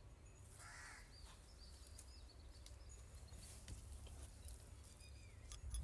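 Faint outdoor ambience with bird calls: one short harsh call about a second in and a few small chirps, over a low steady rumble.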